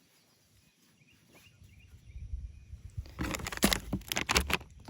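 Handling noise from packaging or toys being moved by hand: a low rustle builds, then a dense run of sharp crackles lasts about a second and a half, starting about three seconds in. A few faint chirps come earlier.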